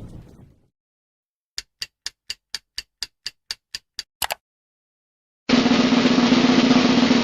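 Quiz sound effects: sharp ticks about four a second for two and a half seconds, ending in a quick double tick, then after a short silence a steady snare drum roll starts about five and a half seconds in.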